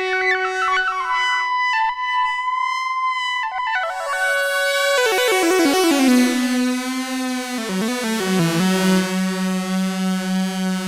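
Arturia MicroBrute analog monosynth playing a single-note line that glides and steps downward, then holds a low note whose bright, buzzy upper tone shifts and swells over several seconds.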